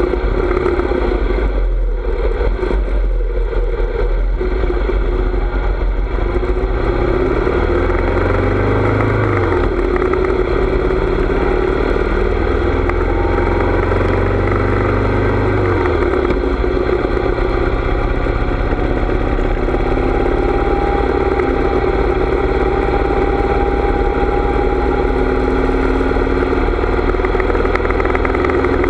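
Harley-Davidson motorcycle's V-twin engine running on the road, its pitch rising and falling a couple of times in the first half, then holding steady. A heavy low wind rumble on the microphone sits under it.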